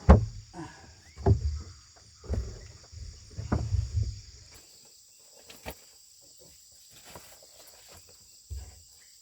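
Four heavy low thumps about a second apart, over a steady high drone of crickets and other insects. After about four and a half seconds the thumps stop, leaving the insect drone and a few faint clicks.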